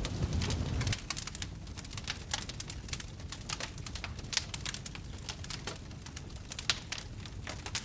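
Wood fire crackling in a fireplace, with many irregular sharp pops and snaps. A low rumble under it drops away about a second in.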